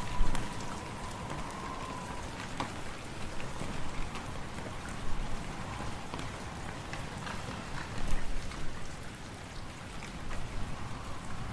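Wood fire crackling in a fireplace, many small sharp pops over a steady hiss of wind, which swells a few times.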